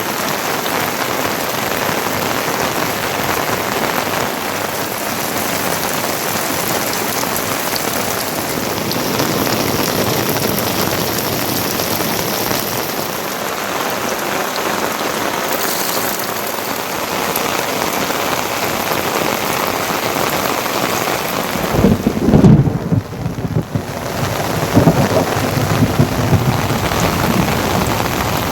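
Heavy rain falling steadily. About three-quarters of the way through, a sudden loud, low rumble of thunder breaks in, and further low rumbling continues under the rain near the end.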